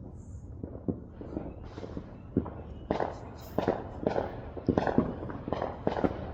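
Fireworks and firecrackers going off, an irregular string of sharp pops and bangs that comes faster and louder about halfway through.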